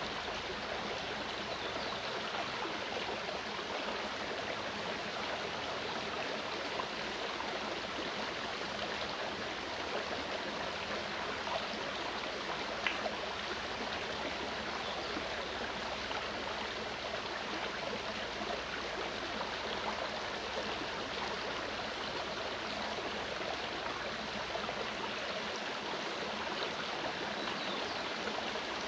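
A clear mountain stream flowing over rocks, a steady rushing and babbling of water.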